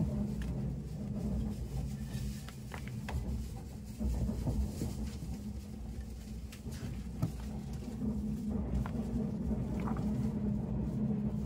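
Steady running rumble inside a Tobu SPACIA X limited express car, with light taps and rustles of a paper brochure being pulled from the seat pocket and its pages turned.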